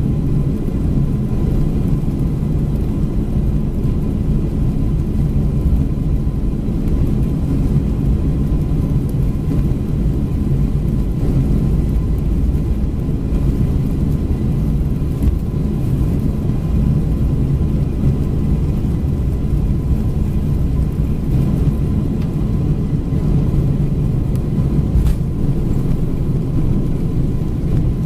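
Steady rumble of a Boeing 747-400's engines and airflow heard inside the passenger cabin, an even low drone with a faint steady whine above it.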